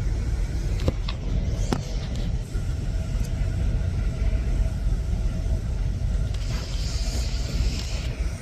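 Steady low rumble of a truck's running engine, with a few short clicks in the first two seconds and a brief hiss near the end.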